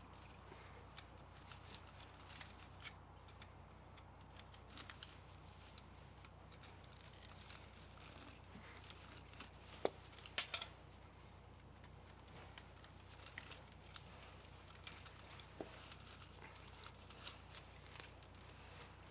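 Faint scattered clicks, snips and rustles of hand tools working metal and wire while a scrap electric pump motor is stripped for its copper, with a sharper cluster of clicks about halfway through.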